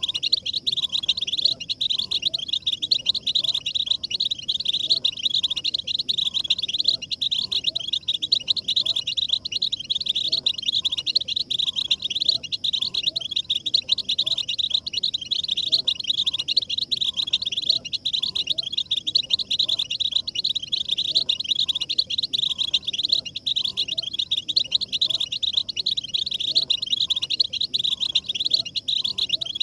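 A dense chorus of European goldfinches twittering and trilling without pause, a lure recording of group goldfinch song played to stimulate male goldfinches to sing.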